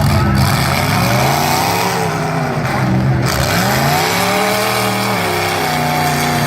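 Several derby car engines revving hard, their pitch climbing and falling in repeated swells as they accelerate and lift off.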